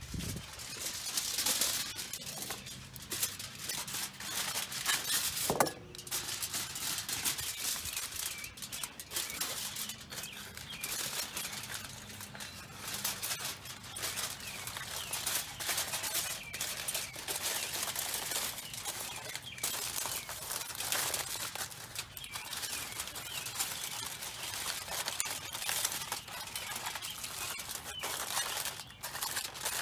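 Aluminum foil crinkling and crackling as it is wrapped and pressed by hand, an irregular run of sharp crackles.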